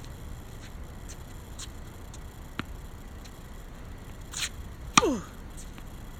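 Badminton serve practice: a short swish, then a sharp hit about five seconds in with a brief ringing that drops in pitch, a racket striking a shuttlecock. A faint click comes earlier.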